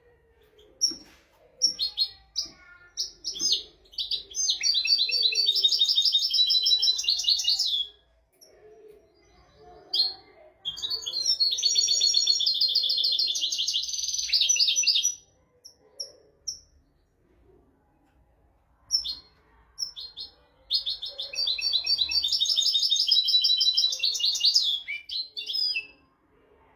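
European goldfinch singing: three long phrases of fast, high twittering notes, each lasting four to five seconds, with short single call notes in the pauses between them.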